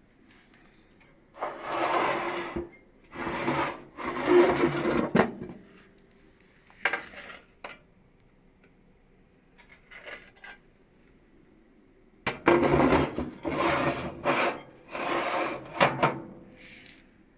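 Rough scraping strokes, each lasting about a second, in a group of three near the start and a run of four in the second half, with a few shorter scrapes between.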